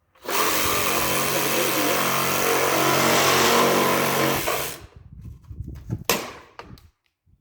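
Power tool cutting through a lawn tractor's hard plastic dash shroud, running steadily for about four and a half seconds and then stopping. A short sharp knock follows about a second later.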